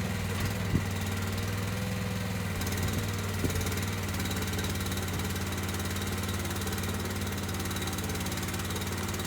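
An engine running steadily at one speed, a low even hum, with a few light knocks in the first few seconds.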